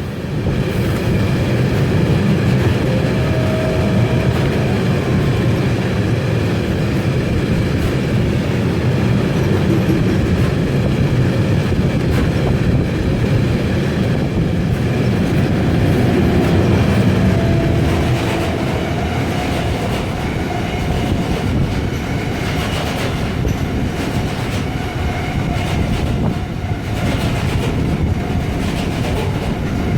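A train running past on the track, a loud steady rumble with wheel clatter on the rails, easing a little about eighteen seconds in.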